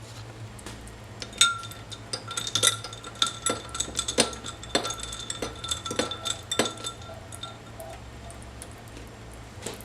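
A utensil clinking repeatedly against a bowl, about twice a second, the bowl ringing on after each strike. The clinks stop about seven seconds in.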